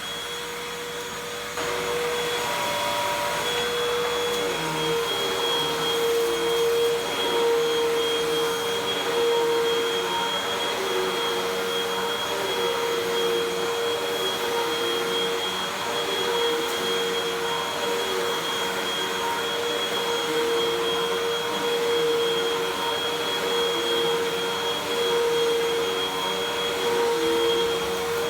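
Hoover WindTunnel 2 Rewind UH70820 upright vacuum cleaner running, a steady high motor whine that gets louder about a second and a half in.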